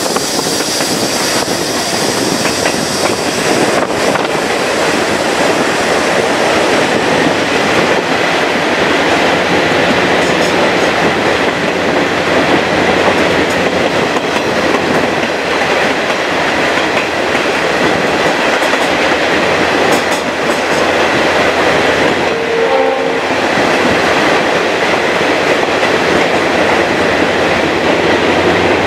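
Chepe passenger train running through a rock tunnel, with a steady, loud noise of wheels on rails and rolling cars, heard from beside the carriages.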